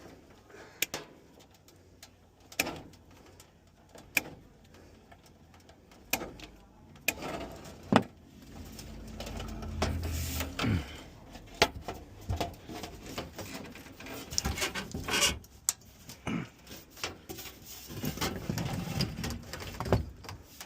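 Hand tools and sheet-metal parts clanking and clicking in a string of sharp knocks, with some scraping and rumbling, as a furnace blower assembly is worked on.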